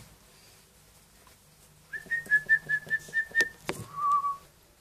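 African grey parrot whistling: a quick run of short notes on one high pitch, a sharp click, then a lower warbling whistle.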